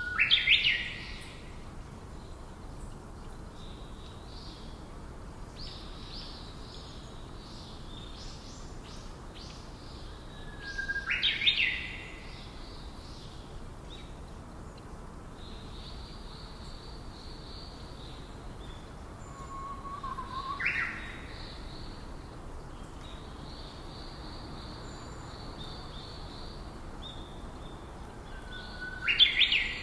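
Bird calls repeated about every nine seconds, each a short low note followed by a sharp, fast upward whip-like sweep, with softer high chirping from other birds between them.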